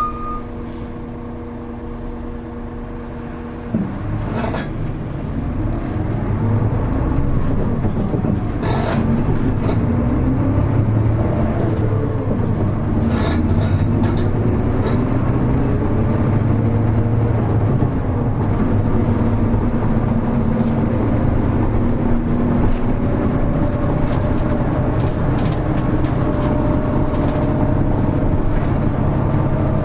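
Hino Rainbow HR city bus heard from inside the cabin: the diesel engine idles steadily, a knock comes about four seconds in, then it pulls away, accelerating through several gear changes with the engine pitch rising and dropping, and settles into steady running with road noise.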